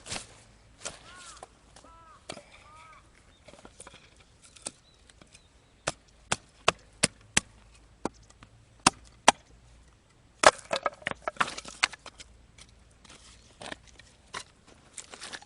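Batoning firewood: a knife driven into a stick by sharp knocks of a wooden baton on its spine, several in quick succession, then a burst of cracking and splintering as the wood splits.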